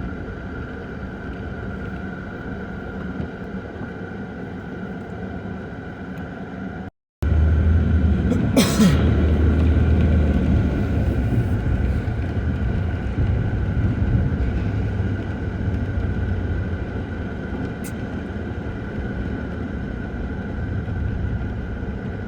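Steady vehicle road noise with a low rumble. After a cut about seven seconds in, the rumble is louder, and a second later a brief whoosh sweeps down in pitch.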